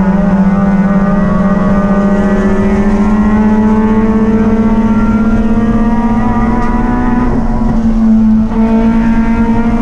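Race car engine running hard at high revs, its pitch creeping slowly upward. About seven seconds in the revs briefly drop and waver, then pick back up.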